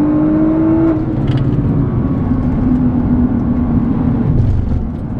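Nissan GT-R R35's twin-turbo 3.8-litre V6 heard from inside the cabin, pulling hard with its note rising in pitch. About a second in the rising note breaks off, and the engine runs on at a lower, steadier note over a dense low rumble of road noise.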